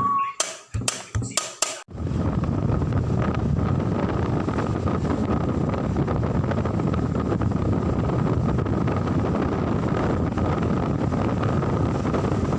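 Percussive intro music ends about two seconds in. It gives way to a steady rush of wind noise on the microphone from a moving vehicle, with a faint steady whine underneath.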